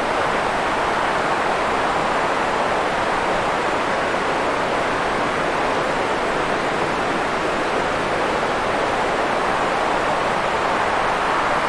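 Steady white-noise track: an even, unchanging rushing hiss, fullest in the middle range and softer in the highs and lows.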